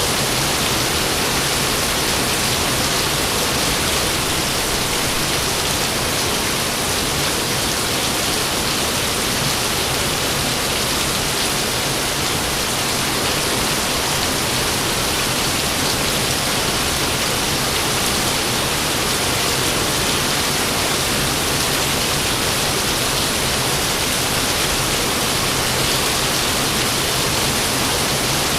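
Steady rain falling, an even hiss with no let-up and no thunderclaps.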